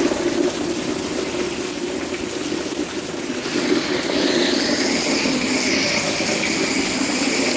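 Heavy rain pouring down steadily, with water running and splashing. A higher hiss joins about three and a half seconds in and holds to the end.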